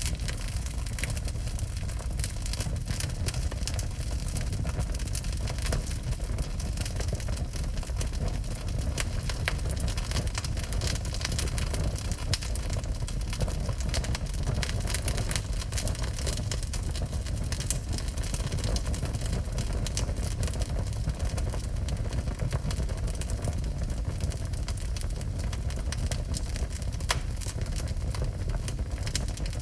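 Wood fire burning in a fireplace: constant irregular crackling over a steady low rumble, with an occasional louder crack.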